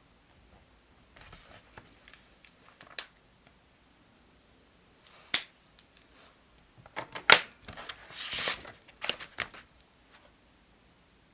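Stationery being handled on a desk: a run of sharp clicks and taps with a short stretch of paper or plastic rustling a little past the middle.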